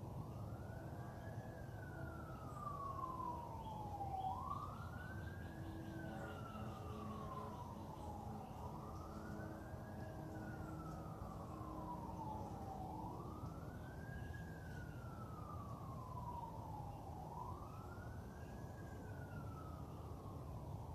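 Distant emergency-vehicle siren in a slow wail: each cycle rises quickly, then falls slowly over about four seconds, repeating about five times. Faint bird chirps and a low, steady background rumble sit underneath.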